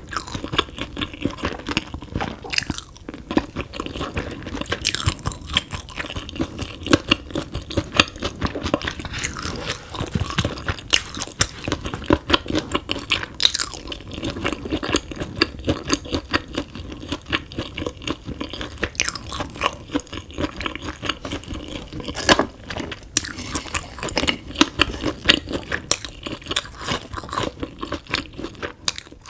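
Close-miked eating of spicy chicken feet with a seaweed rice ball and pickled radish: continual wet chewing broken by frequent sharp crunches.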